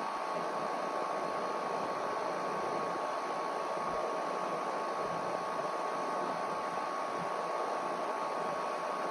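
Air conditioner running steadily: an even rush of fan air with a faint constant whine.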